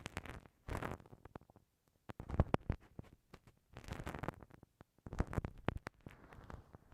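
Bamboo ear pick scratching and scraping against a binaural microphone's ear: bursts of crackly scratching, each about half a second long, in five or so strokes separated by short pauses.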